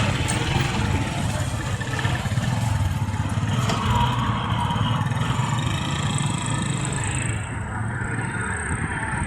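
Road traffic: motor vehicle engines running steadily, with most of the sound low in pitch.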